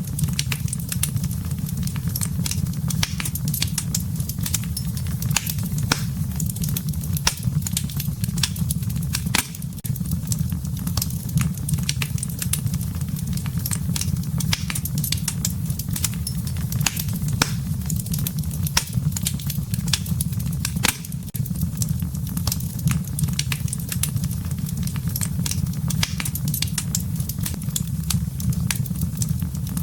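Campfire crackling: many irregular sharp pops and snaps over a steady low rumble of the burning fire.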